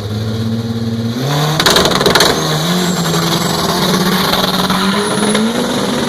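Nissan GT-R R35's twin-turbo V6 running loud under throttle. Its pitch steps up about a second in, a harsh noisy burst follows about half a second later, and then a steady note slowly climbs.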